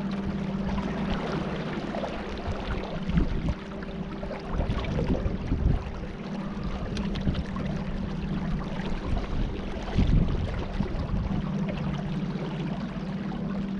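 Boat motor running with a steady hum, over splashing water and wind noise on the microphone.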